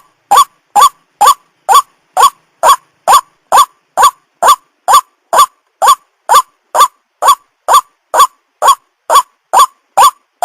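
White-breasted waterhen (burung ruak-ruak) calling: a long, unbroken run of identical short rising notes, evenly spaced at about two a second.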